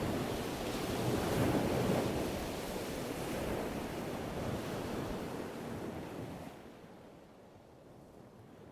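Ocean surf washing in, a steady rushing noise that fades away over the last few seconds.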